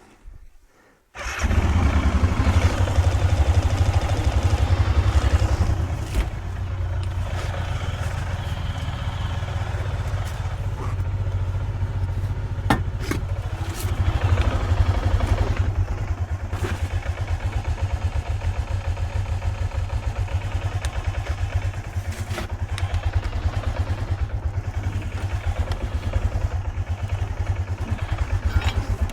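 A van's engine catches about a second in and runs at a fast idle for a few seconds, then settles to a steady, lower idle. A few sharp knocks come over it later on.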